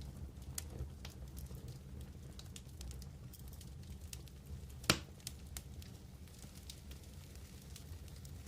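Wood campfire crackling, with scattered small pops and one louder pop about five seconds in, over a steady low rumble.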